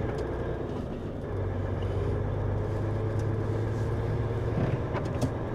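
Truck's diesel engine running steadily, heard inside the cab as a continuous low drone.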